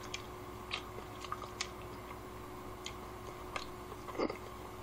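Quiet chewing of a mouthful of fish cake, with a few faint scattered clicks. A short, louder sound comes near the end.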